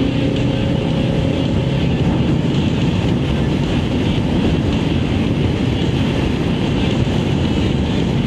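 Motorcycle running at road speed with wind rushing over the microphone; the engine note climbs slightly in the first couple of seconds.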